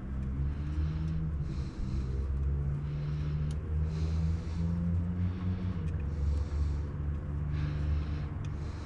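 A steady low hum with a few shifting pitches, and breathing close to the microphone, a short hissy breath about every second.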